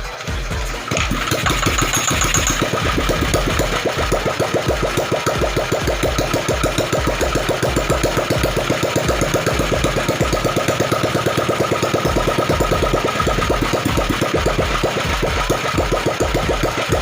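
Ratna 350cc single-cylinder stationary diesel engine, converted to run on pertalite petrol with a PE28 carburettor and CDI spark ignition, running steadily with an even, rapid firing beat.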